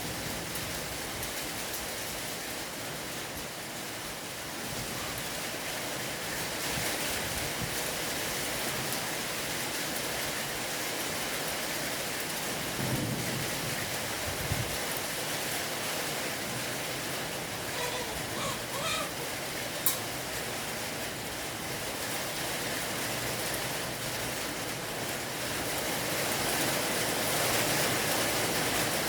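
Steady rain falling, an even hiss throughout, with brief low rumbles about 13 seconds in and a single sharp click about 20 seconds in.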